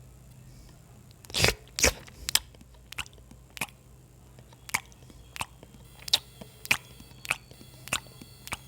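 A person chewing food: two louder crunches about a second and a half in, then a string of short, sharp mouth clicks about every half second.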